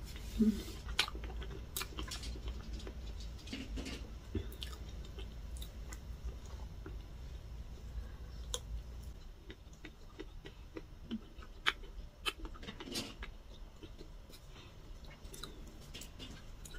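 A person chewing mouthfuls of soft chocolate cake close to the microphone, with scattered light clicks and smacks.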